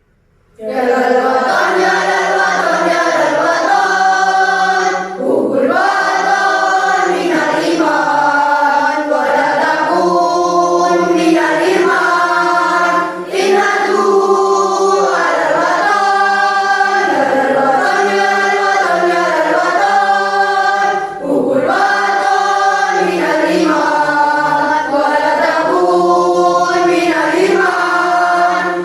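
A children's school choir singing in unison and parts. It comes in just after the start out of near silence and sings in long phrases with brief breath pauses between them.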